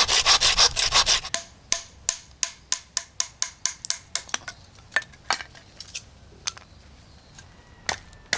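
Hand saw cutting through a stick in quick back-and-forth strokes, stopping about a second in. Then a scattered series of sharp clicks and taps.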